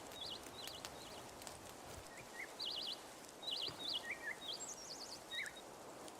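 Small songbirds chirping: a string of short, quick-warbling high calls over a steady background hiss with a few faint clicks.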